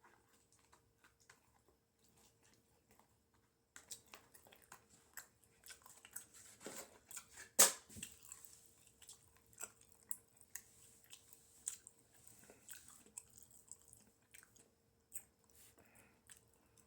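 A person chewing and eating a serving of In-N-Out animal-style fries, with soft wet mouth smacks and small clicks that start about four seconds in. One louder sharp click or knock stands out about halfway through.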